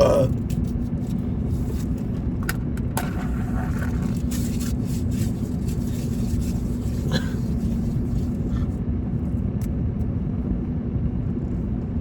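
Car driving on a road, heard from inside the cabin: a steady low rumble of engine and tyres with a constant hum, and a few light clicks and rattles.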